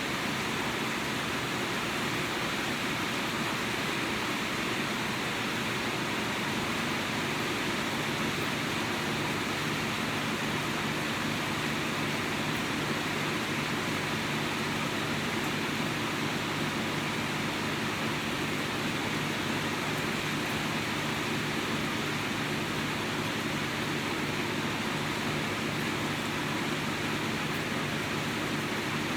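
Steady rain falling, an even rushing hiss without let-up. A low steady hum comes in faintly underneath about nine seconds in.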